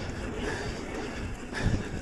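A mountain bike rolling down a dirt trail: wind rushing over the microphone and tyre and chassis rattle, with a thump from the bike hitting a bump about three-quarters of the way through.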